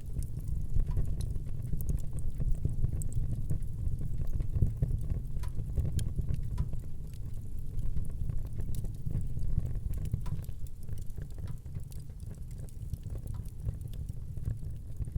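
Fire burning in a fireplace: many small, sharp crackles and pops scattered over a steady low rumble.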